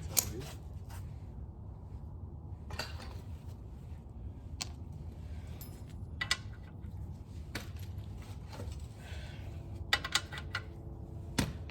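Metal hand tools clinking and rattling in irregular clicks as sockets and wrenches are sorted through, with a quick run of clinks about ten seconds in.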